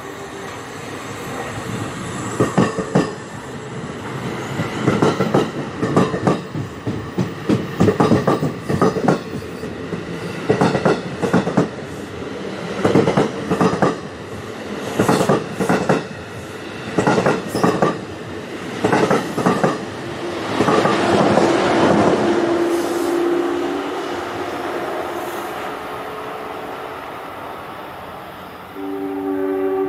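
New Jersey Transit commuter train of multilevel coaches rolling past, its wheels clacking in quick pairs and groups over rail joints and switches, then a steady rumble that swells about two-thirds of the way through. A train horn sounds near the end.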